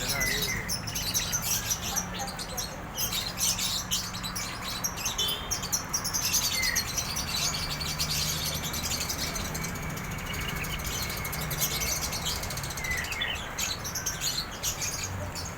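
A drongo (sri gunting) singing vigorously: a dense run of rapid, high-pitched chattering notes, with a few short whistles and one long thin whistle in the middle.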